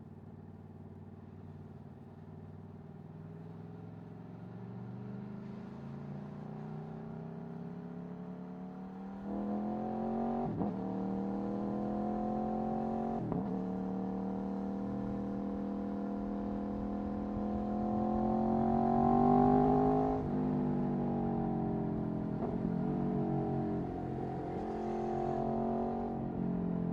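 Aprilia Tuono V4 1100's V4 engine through an Akrapovic Racing exhaust while riding. Revs climb slowly, the engine grows louder about nine seconds in, with two brief breaks in pitch at gear changes, and it peaks about twenty seconds in before easing off.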